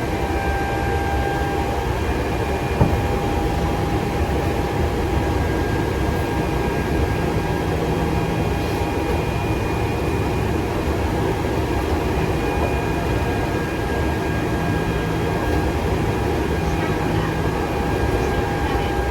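Nankai 6000 series electric train running at steady speed: a continuous rumble of wheels on rail with a steady high whine over it. There is a single sharp knock about three seconds in.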